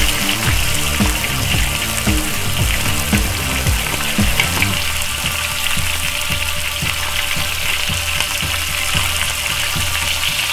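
Oil sizzling steadily as ostrich steaks, garlic, onion and mushroom pieces fry on a cast-iron pot lid. Background music with a steady beat plays underneath for the first half, then settles into a steadier low tone.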